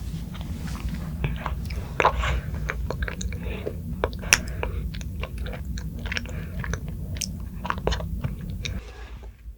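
Close-miked eating sounds: a person biting and chewing, with many short wet clicks and smacks in quick succession, fading near the end.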